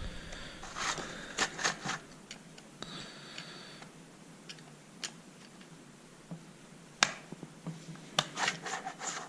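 Chainsaw chain tensioner being turned by hand to slacken the chain, making quiet metal scraping, rubbing and clicking. The sounds come in short scattered clusters, with one sharp click about seven seconds in.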